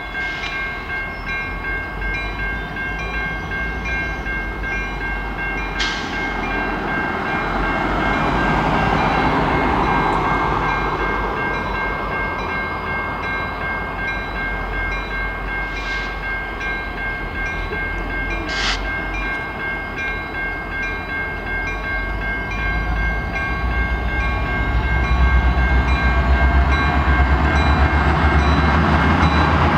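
A level crossing's warning bell rings steadily while CN diesel locomotives approach pulling a string of tank cars. Their low engine rumble builds over the last few seconds.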